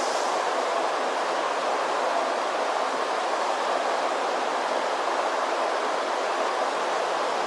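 Steady, even rushing noise of air and machinery on an underground subway platform, with a train standing stopped at the platform.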